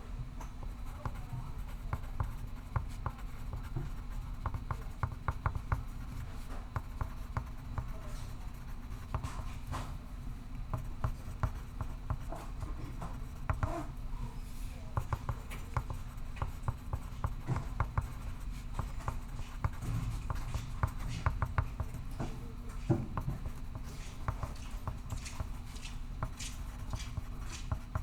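Pencil scratching on paper in short, quick strokes throughout, over a steady low room hum.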